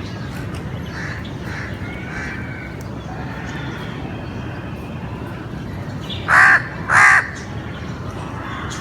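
A crow cawing: two loud, harsh caws in quick succession near the end, with fainter bird calls earlier.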